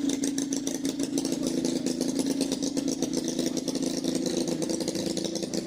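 Antique tractor engine idling steadily with a rapid, even firing beat.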